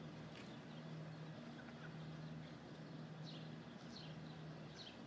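A few short, high, falling bird chirps, mostly in the second half, over a faint low steady hum.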